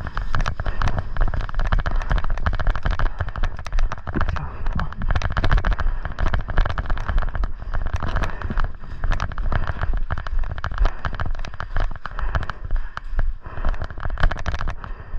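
Airsoft guns firing during a skirmish: a dense run of sharp cracking shots that goes on without a break, over a low rumble.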